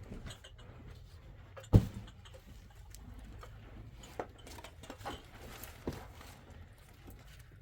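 A sharp knock about two seconds in, then three lighter knocks and scattered small taps and rustles over a low background hum.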